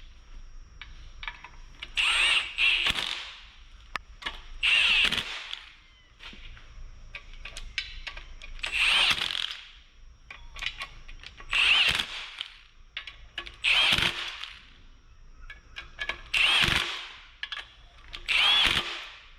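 A handheld power tool running in about eight short bursts of roughly a second each, with small clicks between, as bolts are driven during reassembly of a Nissan RB engine.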